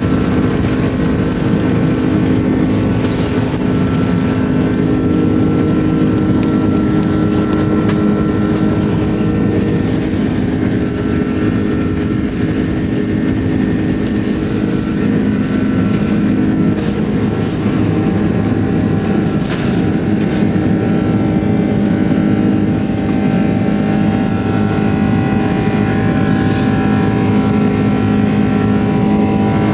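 Airbus A330-200 jet engines heard from inside the cabin: a loud, steady roar with several steady whining tones held throughout.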